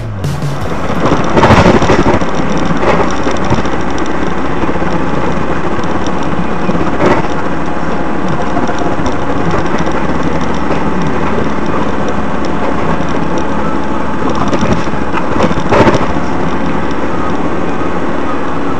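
A steady loud rushing noise with a few short knocks: one about a second and a half in, another around three seconds, one near seven seconds and one near sixteen seconds.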